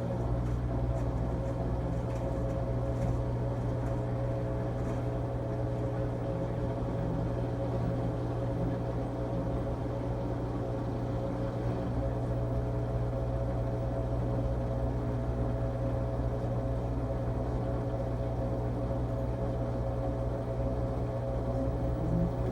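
13-year-old LG Tromm WD-CR101C front-loading drum washing machine running on its quick-wash cycle: a steady machine hum with a few constant tones, unchanging throughout.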